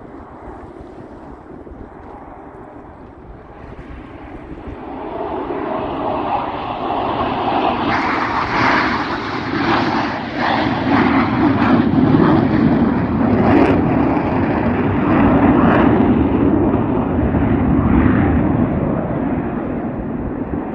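Airshow aircraft engine noise building as the plane approaches, loud for about ten seconds with a rough, pulsing texture, then easing slightly near the end.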